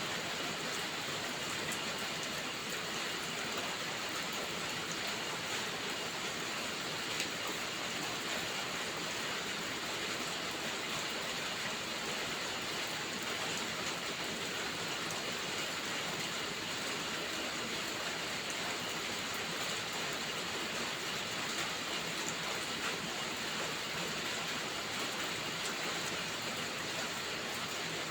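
Steady heavy rainfall: an even, unbroken hiss that holds at the same level throughout.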